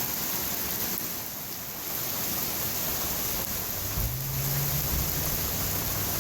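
Heavy rain pouring down steadily. A low hum joins about four seconds in.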